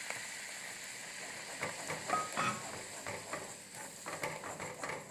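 Butter sizzling in a pan as plain flour is stirred in for a white-sauce roux. From about one and a half seconds in, the spoon scrapes and knocks against the pan in short irregular strokes, with a brief squeak near the middle.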